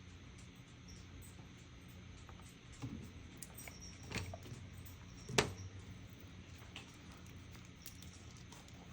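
A few light taps and knocks of small objects handled on a tabletop, the sharpest about five seconds in, over a faint steady background.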